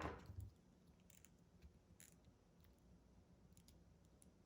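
Mostly near silence, with a soft knock right at the start and a few faint clicks: plastic action figures being handled.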